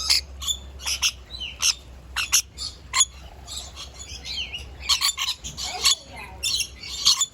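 A flock of lorikeets feeding from nectar cups, giving many short, shrill screeching calls in quick succession, busiest in the second half.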